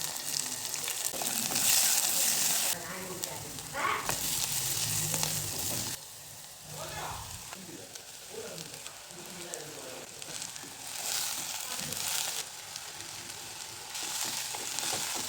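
Food frying in a hot pan, a steady sizzle that is loudest for the first three seconds and swells again in later surges.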